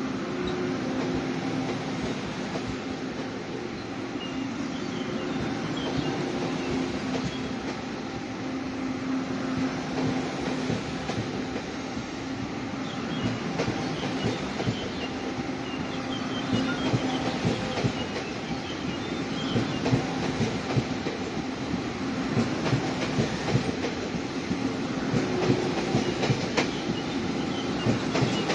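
Passenger train rolling along the track, a steady hum under the running noise, with wheels clicking over the rail joints louder and more often in the second half.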